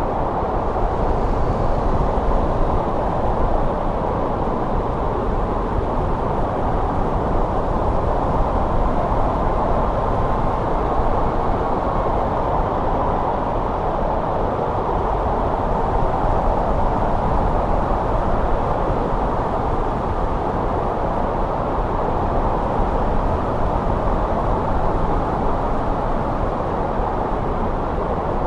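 Steady wind from a winter snowstorm, an even, low rush with no sharp gusts or breaks.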